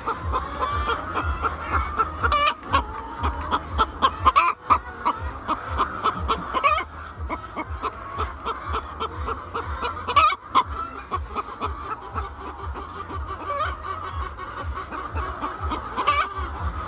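A flock of laying hens clucking and calling together in a continuous chorus, mixed with many short, sharp clicks and knocks.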